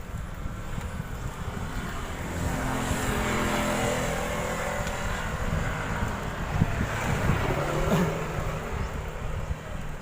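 A motor vehicle passes close by, its engine growing louder over a couple of seconds and then dropping in pitch as it goes past, over a steady low rumble of wind on the microphone from riding.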